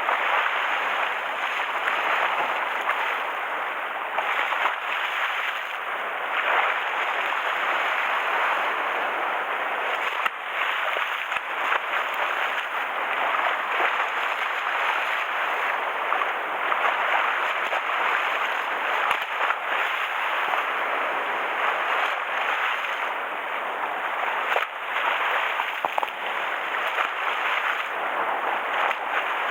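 Rough sea in typhoon conditions: waves washing and splashing steadily against the shore, with no engine or other distinct sound standing out.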